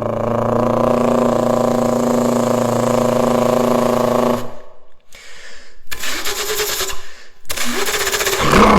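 Revving car engine sound, most likely imitated by a person's mouth. It holds a steady high-revving buzz for about four seconds, drops away into short crackling bursts, then rises again near the end.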